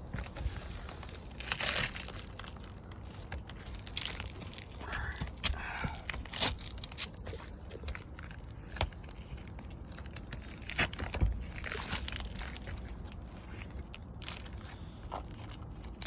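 Asphalt roof shingles being worked by hand: irregular scraping, crunching and crinkling with scattered sharp clicks and knocks, the loudest knocks about eleven seconds in.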